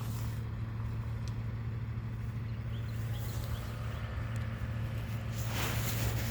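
Garbage truck's diesel engine running at a steady low hum, with a short hiss about five and a half seconds in.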